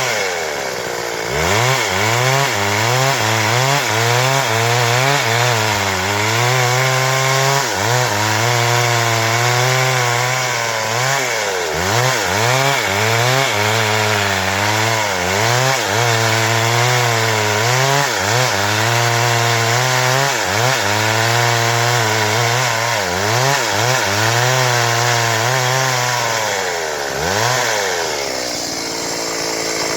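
Stihl MS 382 two-stroke chainsaw running at high revs while cutting wood, its engine pitch wavering up and down as the load on the chain changes. The note dips sharply and recovers about a second in, and drops again near the end.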